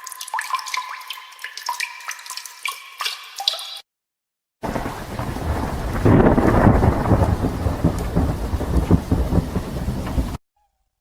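Two sound effects back to back: first about four seconds of high, tinkling tones with short pitch glides, then, after a brief gap, a thunderstorm effect of rain hiss and rolling thunder that swells about two seconds in and cuts off suddenly near the end.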